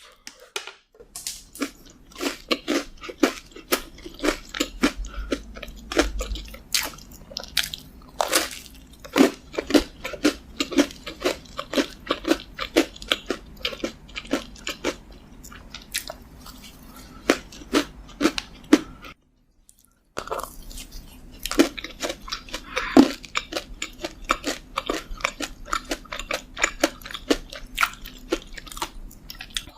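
Close-miked chewing and biting of doughnuts: a rapid, irregular stream of wet mouth clicks and smacks. It breaks off for about a second roughly two-thirds of the way through, then resumes.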